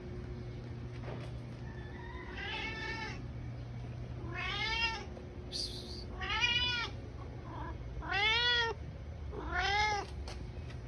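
Domestic cat meowing in drawn-out, rising-then-falling calls, five of them about every one and a half to two seconds: the courting calls of cats in heat.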